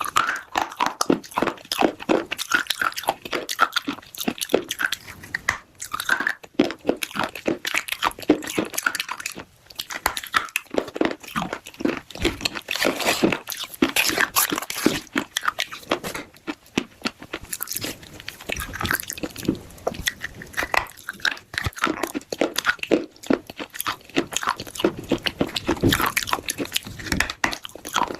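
Pieces of a baked clay piggy bank being bitten and chewed, a continuous dense crunching made of many sharp cracks.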